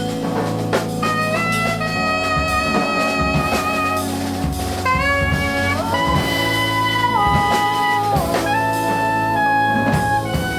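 Jazz quartet playing: an alto saxophone carries the line in long held notes that step and slide from one pitch to the next, over a walking double bass and a drum kit with cymbals.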